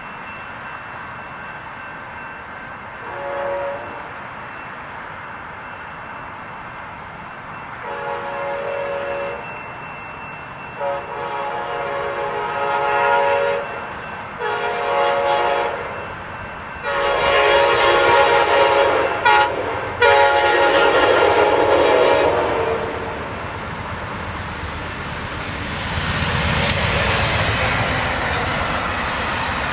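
Leslie K5LA five-chime horn on Amtrak GE P42DC locomotive #72 sounding a brief toot, then a grade-crossing sequence of long, long, short, long blasts. The train then passes close with a rushing rumble of wheels on rail.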